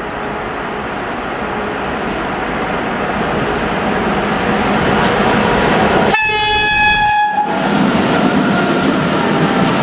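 Freight train hauled by a 2ES10 'Granit' electric locomotive, its rail noise growing steadily louder as it nears. About six seconds in the locomotive sounds one high-pitched horn blast lasting just over a second, a friendly greeting from the crew, and the wheels clatter on after it.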